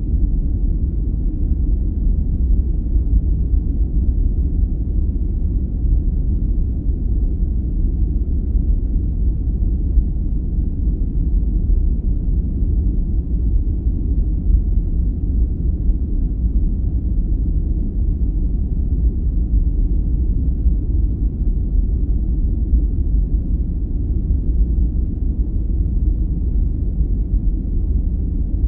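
Steady, deep sleep-aid noise, a dark even rumble with almost nothing in the highs, unchanging throughout.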